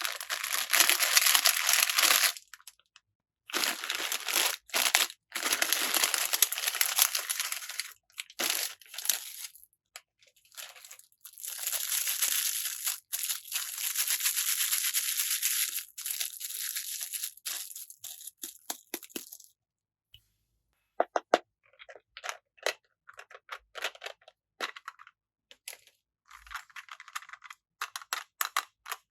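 Packaging being crinkled and torn open in long stretches of crackling, then, after about twenty seconds, small separate clicks and taps as pieces are handled.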